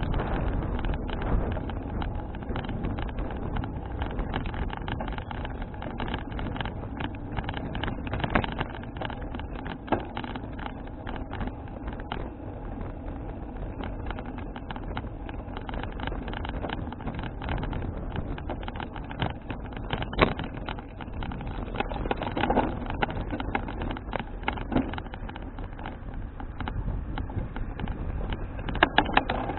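Steady rumble of wind on the microphone and road noise from a folding bicycle being ridden, with scattered clicks and rattles and a few louder knocks past the middle.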